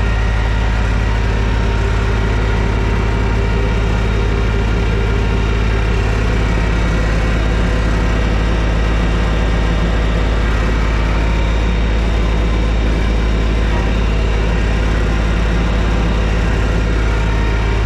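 TYM T224 subcompact tractor's diesel engine running steadily at a constant speed while pulling a box blade.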